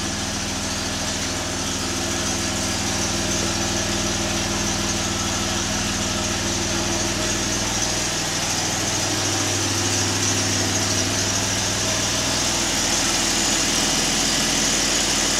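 2011 Jeep Wrangler's 3.8-litre V6, newly fitted with a Prodigy turbo kit and running through the factory exhaust, idling steadily on its first start-up, with a steady high whine above the engine note.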